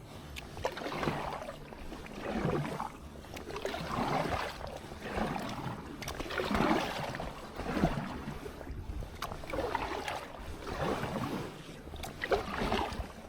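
Kayak paddle strokes through the water: a rhythmic swish and splash about every one and a half seconds as the kayak is paddled along.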